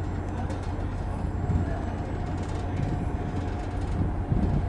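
Steady low mechanical rumble with a faint steady hum and scattered light rattles.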